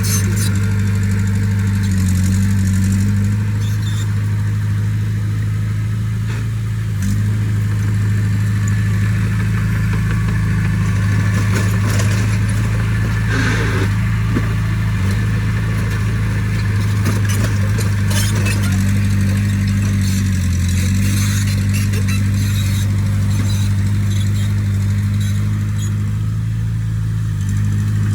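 Heavy-equipment diesel engine running steadily under load, its note shifting a few times (around 2, 7 and 21 seconds in), with light metallic clanks scattered through.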